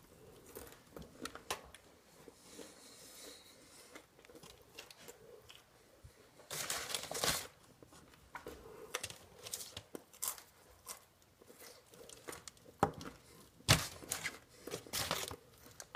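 Eating sounds: chewing and crunching of burgers and bacon, mixed with crinkling and tearing of paper food wrappers. They come in short, irregular bursts, the loudest about seven seconds in and another cluster near the end.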